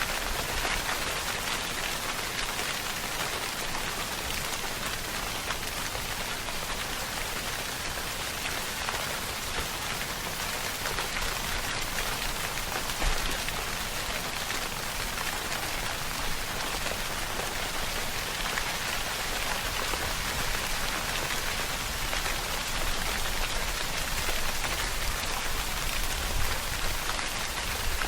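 Steady rainfall pattering on a surface, a dense even hiss of many drops with no let-up and no thunder.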